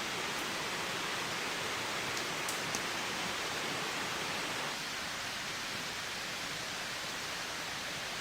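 Heavy rain falling steadily, an even hiss, with a few faint drop ticks about two to three seconds in. The rain eases slightly a little past halfway.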